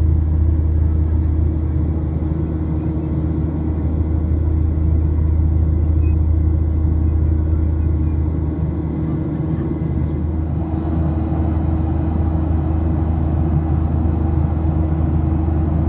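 Cabin noise of a Boeing 737-700 with its CFM56-7B engines running: a steady low rumble with a few steady hums over it. About eleven seconds in, a higher layer of noise grows louder.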